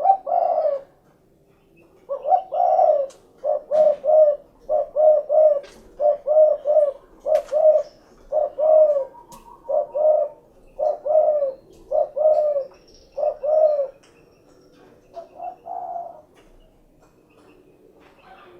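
Spotted dove (derkuku) cooing: a long run of low, repeated coo notes, often in pairs, a little over one a second. A softer short phrase comes near the end.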